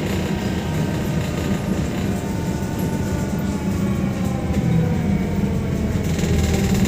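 VMZ-5298.01 Avangard trolleybus under way, heard from inside: steady running rumble with an electric traction-motor whine that falls slowly in pitch as the trolleybus slows.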